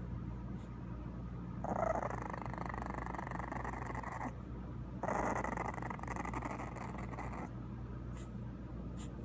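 A dog vocalizing in two long stretches, each about two and a half seconds, over a steady low hum.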